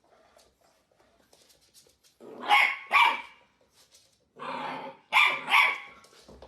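A dog barking: two quick barks, then after a short pause a lower sound and two more quick barks.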